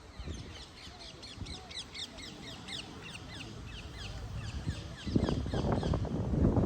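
Birds chirping, a quick run of short, high, falling chirps repeated over and over. About five seconds in, a louder rough noise rises underneath.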